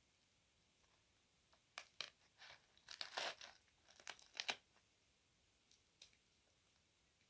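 A quick run of short crackling, rustling handling noises in the middle, like something being crumpled or torn, with a couple of faint ones later.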